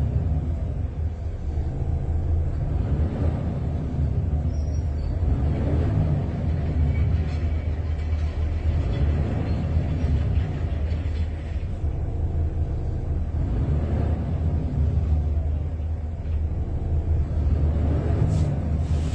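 Volvo FH 460 truck's D13K diesel engine running with a steady low rumble.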